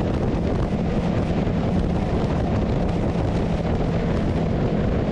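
Motorcycle running steadily at road speed, its engine hum nearly buried under loud, steady wind rush on the microphone.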